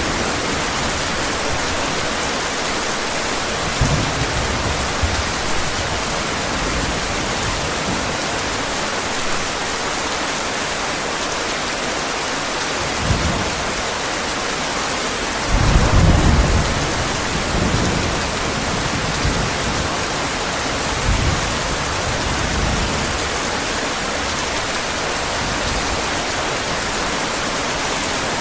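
Steady heavy rain with low rolls of thunder rumbling through it every few seconds. The loudest roll comes a little past halfway.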